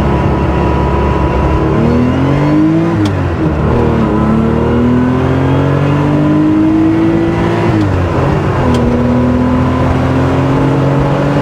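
Porsche 911 SC's air-cooled flat-six, rebuilt with a 3.2-litre short-stroke conversion and special exhaust, accelerating hard. The engine note is steady at first, then climbs from about two seconds in. The revs drop at an upshift about three seconds in and again about eight seconds in, climbing after each shift.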